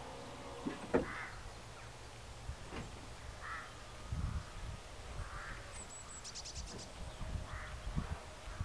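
Birds calling, one short call about every two seconds, with a single sharp click about a second in and a faint low rumble.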